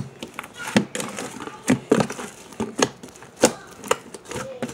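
Homemade slime being mixed and kneaded by hand, with a sharp squelching pop about once or twice a second as it is pressed and pulled.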